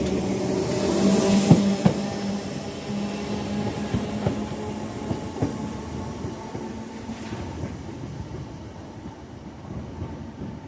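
A train running through the station, its wheels clicking over rail joints over a steady hum, fading as it moves away.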